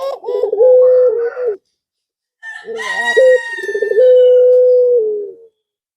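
Male pelung turtle dove cooing, the call a male uses to draw a female: a run of short coos, a pause, then a second bout ending in a long, steady held note. During the second bout a higher call with many overtones slowly falls in pitch over the coos.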